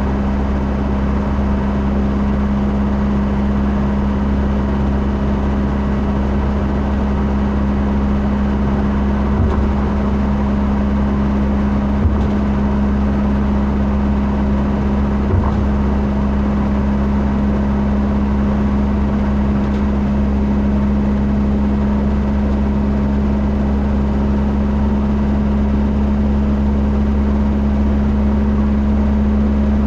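Steady low drone of a vehicle running, with a constant hum tone and a few faint clicks, growing slightly louder near the end.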